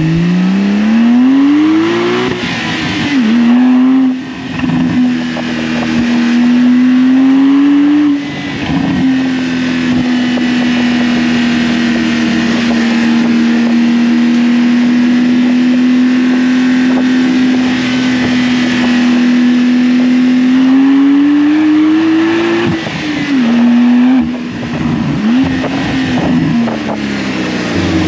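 Porsche 992 911's twin-turbocharged flat-six through a titanium aftermarket exhaust with stock downpipes. The engine note climbs under acceleration and drops with an upshift a couple of seconds in. It then holds a steady pitch for a long stretch of cruising, before climbing and shifting again near the end.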